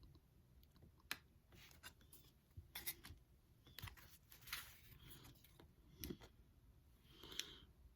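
Pokémon trading cards being handled up close: faint, scattered rustles and light sharp taps as cards are slid and flipped.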